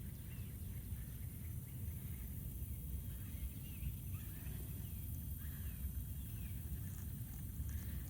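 Songbirds chirping outdoors: many short, quick calls through the whole stretch, over a steady low rumble.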